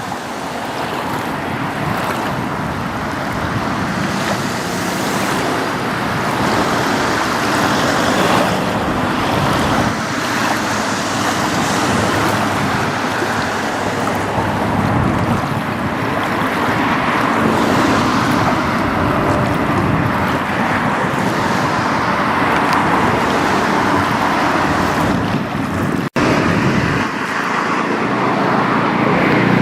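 A car driving with steady rushing road and tyre noise. It cuts out for an instant about 26 seconds in, then a low engine note comes up and rises near the end.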